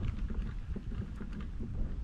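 Wind buffeting the microphone as an uneven low rumble, with scattered small clicks and splashes over it.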